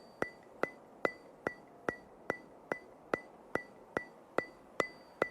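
Steady, evenly spaced ticking, about two and a half sharp ticks a second, each with a short ringing ping.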